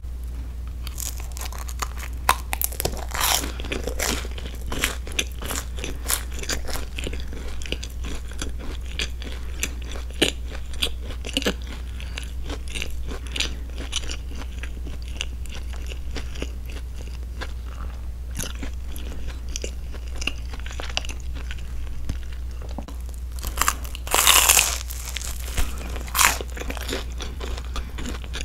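Close-miked chewing of a grilled broccoli cheese sandwich: irregular wet mouth clicks and soft crunches of toasted bread. A louder noisy burst of about a second comes near the end, over a steady low hum.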